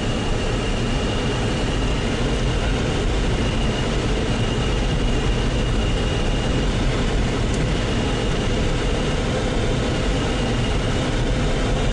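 A car's heater blower fan running, a steady loud rush of air inside the cabin, over the low engine and road noise of the moving car.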